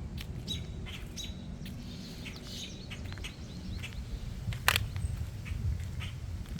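Small birds chirping in short repeated notes over a steady low rumble, with one sharp click about four and a half seconds in.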